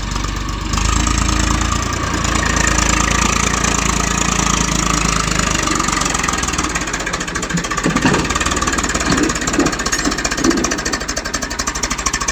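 Diesel tractor engine running under power, getting louder about a second in, with a fast, even clatter and a few louder knocks in the second half.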